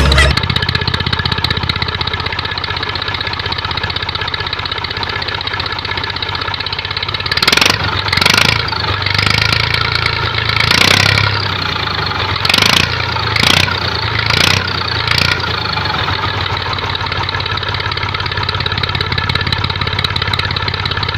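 Mini tractor engine running steadily, with about eight short, louder bursts in the middle stretch as the throttle is blipped.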